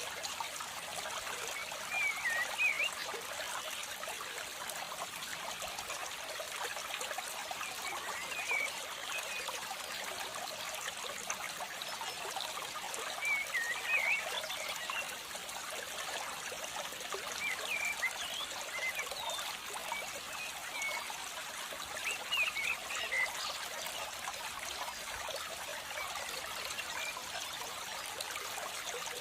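Steady trickle of running water, like a small stream, with short chirps every few seconds.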